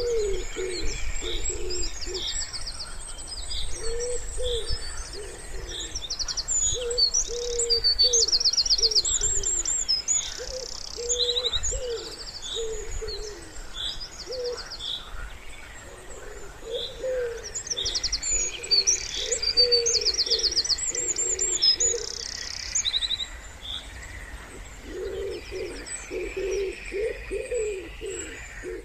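Wood pigeon cooing in repeated phrases, with smaller songbirds singing high trills and chirps over it.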